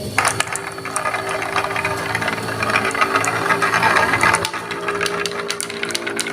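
Marbles rattling and clicking down a wooden marble run in a rapid clatter that thins out about four and a half seconds in, over a steady low tone.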